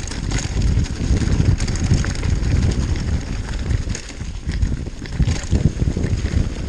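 Mountain bike rolling fast down a rocky, rooty trail: a continuous low rumble of tyres and frame over wet stones, with scattered clicks and knocks and wind buffeting the microphone.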